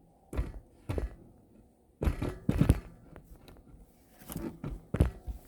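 Irregular thuds and knocks of handling, with the loudest cluster about two seconds in and more near the end.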